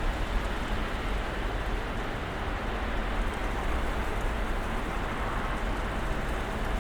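Snowstorm ambience: a steady, even hiss with a low rumble underneath.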